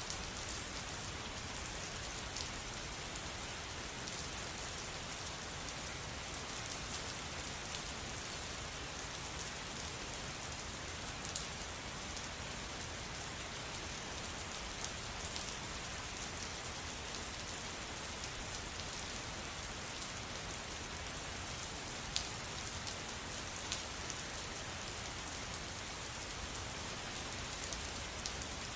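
Steady rainfall, an even hiss with scattered louder drops ticking close by.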